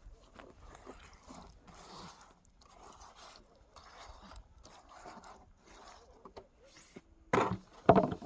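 Repeated scraping strokes, about one a second, then two louder strokes near the end.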